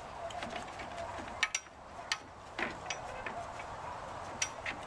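A horse nosing at the last of its feed in a feed pan: scattered sharp clicks and knocks, about five standing out, over a steady background hiss.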